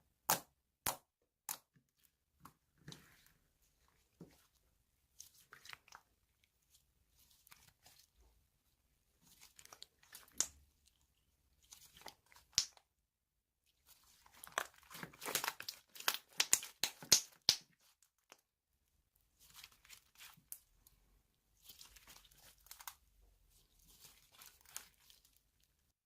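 Slime being played with by hand: a few sharp clicking pops at the start, scattered crackly squishes, then a dense run of crackling about halfway through, and softer crackling near the end.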